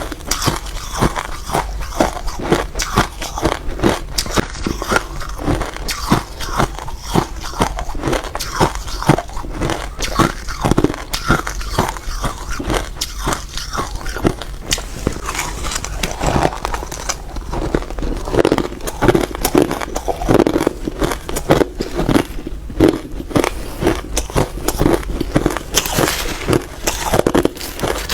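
Close-miked ice eating: hard ice cubes bitten and chewed, with rapid, loud, crackly crunches several times a second.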